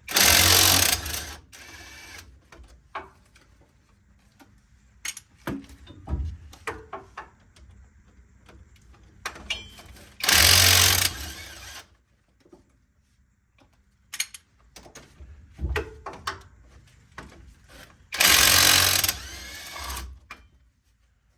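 Impact wrench hammering in three bursts of about a second and a half each, spinning loose front suspension bolts, with short clinks and knocks of tools in between.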